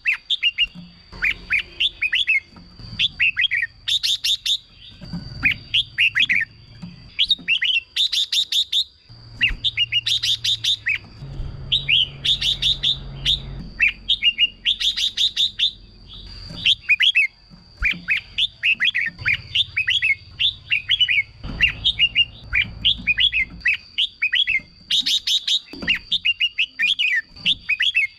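Red-whiskered bulbul singing: quick, repeated phrases of short whistled notes, broken every few seconds by brief rapid trills. A thin steady high tone runs underneath.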